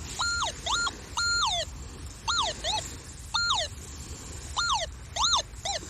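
Metal detector sounding about nine short tones in quick succession as the coil sweeps over a target, each rising to a high steady pitch and then dropping away. The detectorist reads the response as a rubbish target.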